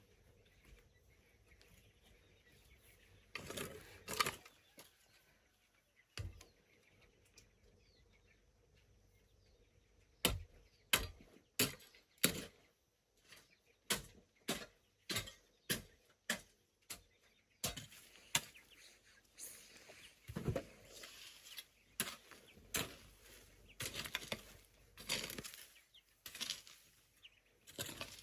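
Repeated strikes and scrapes of a hand tool working the ground, about two sharp hits a second for several seconds, then slower, longer scraping strokes.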